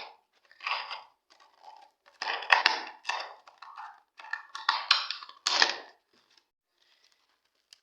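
A label being peeled and torn off a thin plastic bottle, the plastic crinkling as it is handled, in several short bursts.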